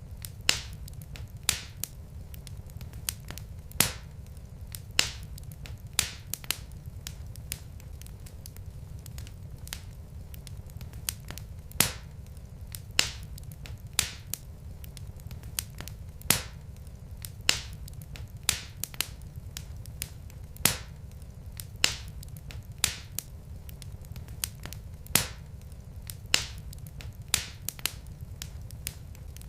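Wood fire burning in a fireplace, crackling with sharp, irregular pops about once or twice a second over a steady low rumble.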